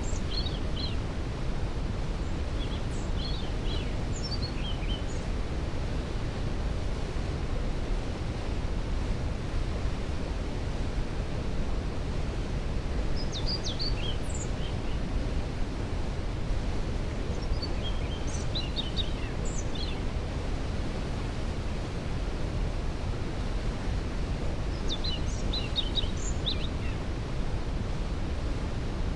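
Waterfall thundering steadily, with a songbird singing short chirping phrases over it about every five seconds.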